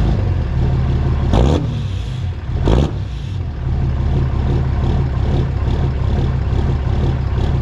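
Cummins diesel pickup engine running loudly with a steady low drone, blipped twice to a brief louder burst about a second and a half in and again a little over a second later.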